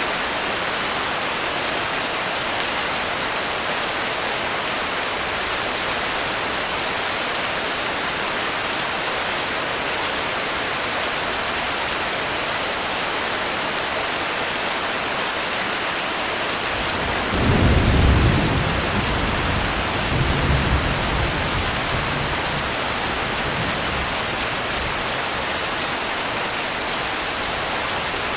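Steady rain. About two-thirds of the way through, a low rumble of thunder swells up, rolls again a couple of seconds later and fades away.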